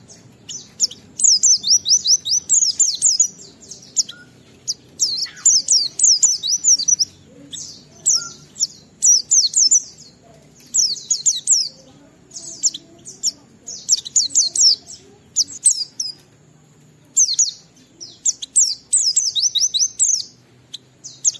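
Pleci (white-eye) singing in the fast, full 'ngalas' style: rapid runs of high, sharply falling notes in bursts of one to two seconds, broken by short pauses.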